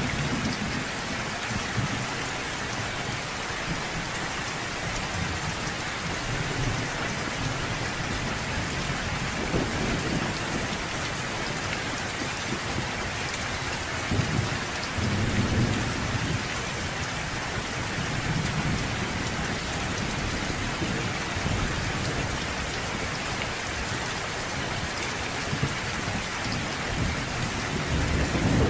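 Steady rain falling, with rolls of thunder rumbling low beneath it, swelling about halfway through and again near the end.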